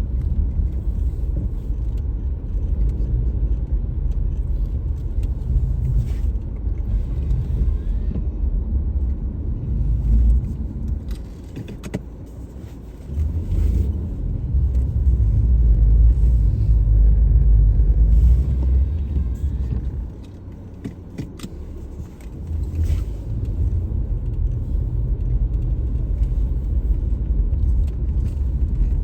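A car driving, with a steady low road rumble that drops away briefly twice. Scattered light rattles and clicks come through over it.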